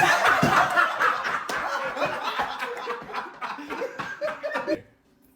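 People laughing hard and snickering, the laughter tapering off and stopping about five seconds in.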